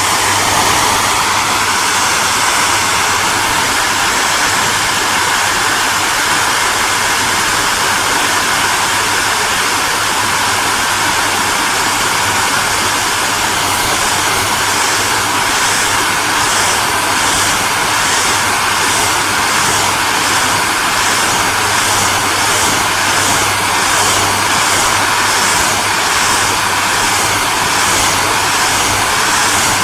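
Hair dryer running steadily: an even rushing blast of air over a low motor hum. From about halfway through, a regular flutter of about two pulses a second runs through the upper hiss.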